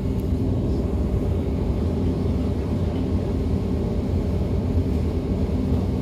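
Ride noise inside a DB Class 425 electric multiple unit running along the line: a steady low rumble of wheels and running gear, heard from the passenger compartment.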